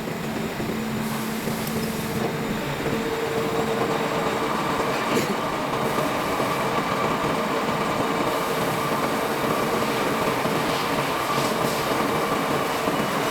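Workshop machine tool running steadily while machining a steel tractor disc brake part: a rough grinding noise with a steady whine whose higher tones firm up over the first few seconds.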